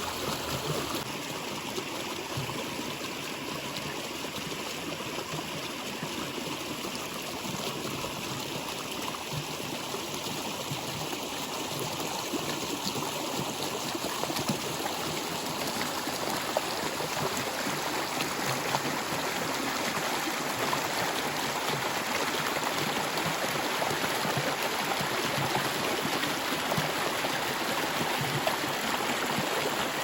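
Stream water flowing and trickling steadily, a little louder in the second half.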